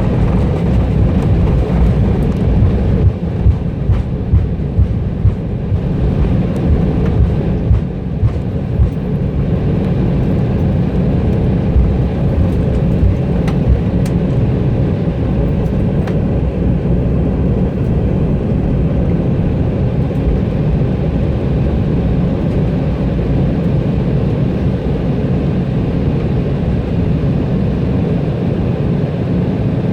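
Steady low cabin rumble of an Embraer E175 rolling on the ground after landing, with a run of light bumps in the first several seconds.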